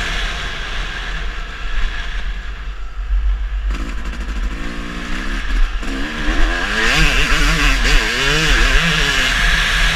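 Motocross bike engine running, then revving up and down rapidly, its pitch rising and falling repeatedly from about six and a half seconds in.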